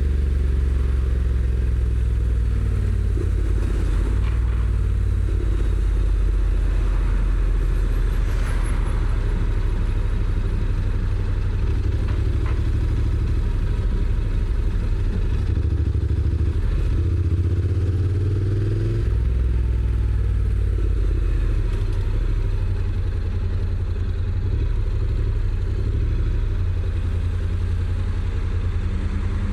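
Honda NC750X's parallel-twin engine on its stock exhaust, running steadily under way, with the note dropping and picking up again a little past halfway.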